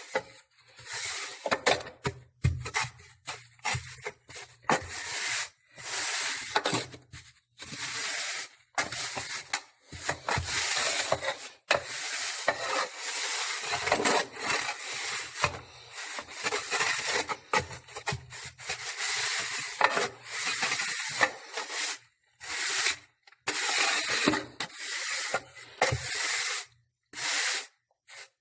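Repeated rough scraping strokes of a tool dragged through a bed of loose salt to spread and level it. Each stroke lasts about half a second to two seconds, with short gaps between them.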